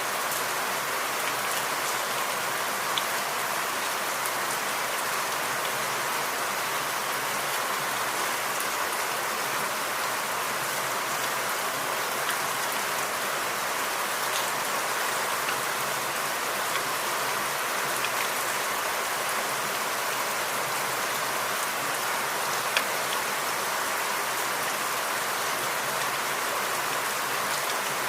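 Steady rain falling in forest, an even hiss with scattered individual drops ticking, one sharper tick about 23 seconds in.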